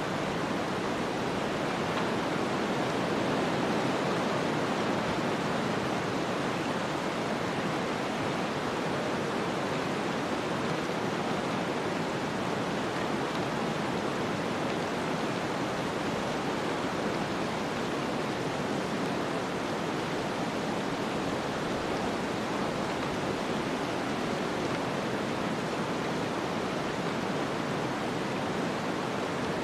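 Snowstorm ambience: a steady, even rushing of wind-blown snow with no separate sounds standing out.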